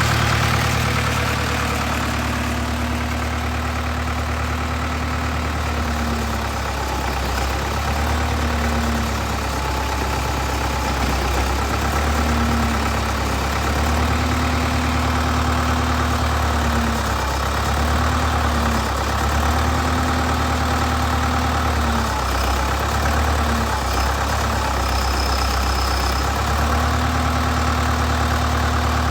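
Ditch Witch 7610 trencher tractor's engine running steadily, with a droning tone that comes and goes in spells of one to three seconds.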